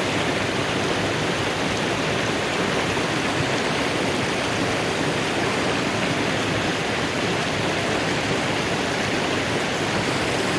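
Mountain river rushing with a steady, unbroken flow of water.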